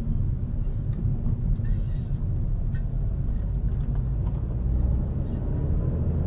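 Steady low rumble of a car on the move: engine and road noise as a dashcam picks it up.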